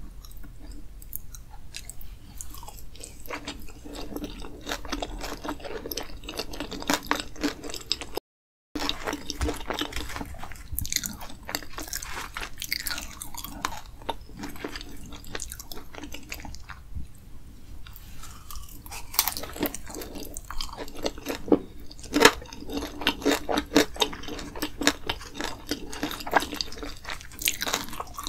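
Mouth-close chewing of sauce-covered fries: wet mouth clicks and soft crunching. The sound cuts out briefly about eight seconds in.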